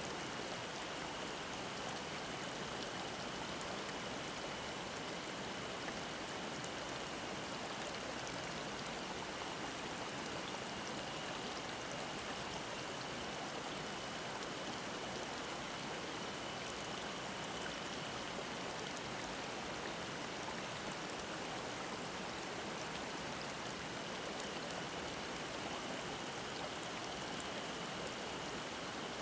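Mountain stream babbling over rocks, a steady even rush of water. A faint, steady, high cicada drone sounds over it.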